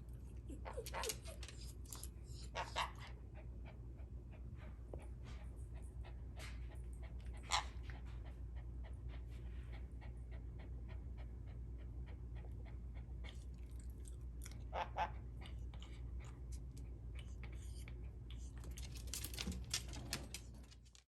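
A dog panting, with a few brief sharper sounds scattered through it, over a steady low hum.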